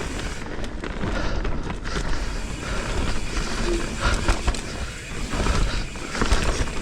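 Mountain bike riding down a dirt trail: tyres rolling over dirt and rocks, with frequent clattering knocks from the bike and a steady wind rumble on the microphone.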